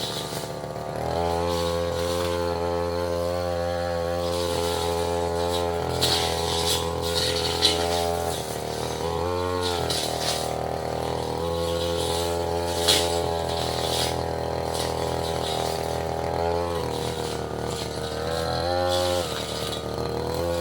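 Tasco 33 Pro brush cutter running at high speed while cutting through saplings and small roots, with sharp knocks as the blade strikes wood. Its engine speed briefly dips and swings twice, near the middle and near the end.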